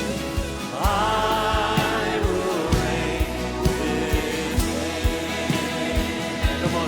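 Live contemporary worship music: a band with a steady drum beat and sung voices holding long notes, a new phrase coming in about a second in.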